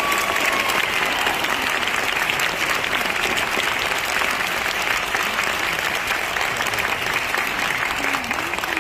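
Audience applauding steadily, with the choir's last held note dying away at the very start.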